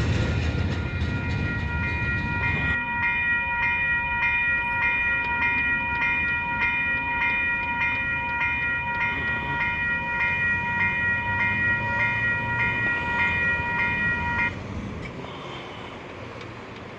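Railway level-crossing bell ringing in a steady, rapid rhythm while the rumble of the last freight cars fades out over the first few seconds. The bell stops about fourteen seconds in, as the crossing signal shuts off after the train has cleared.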